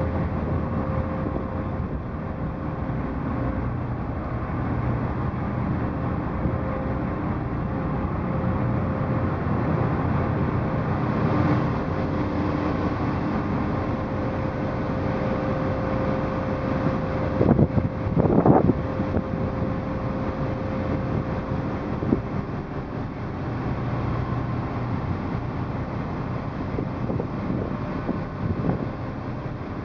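Ferry engine running with a steady drone and a held tone, mixed with wind noise on the microphone. A brief louder clatter comes a little past halfway.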